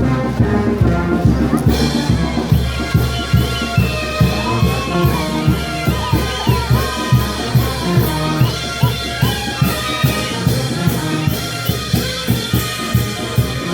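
A brass band playing, with horns over a steady drum beat of about two strokes a second; a bright cymbal layer comes in about two seconds in.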